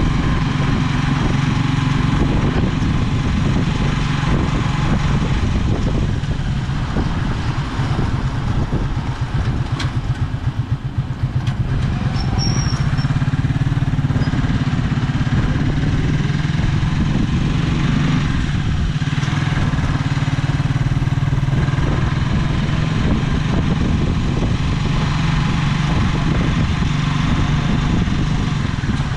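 Motorcycle engine of a Philippine tricycle running steadily, heard from inside the sidecar as it rides along. The engine eases off to a slow, pulsing run about eight to eleven seconds in, then picks up speed again.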